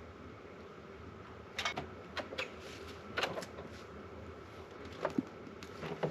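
Several short clicks and knocks, in two or three quick clusters, over a steady hum.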